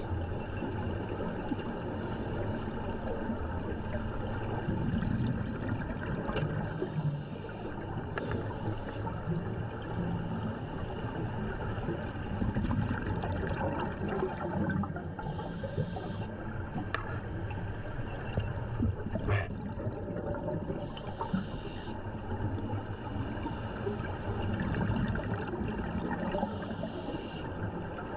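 Underwater water noise: a steady rushing hiss with low churning, broken every few seconds by brief higher hissing bursts.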